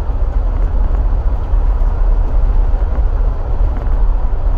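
A car driving, with a loud, steady low rumble of road and engine noise.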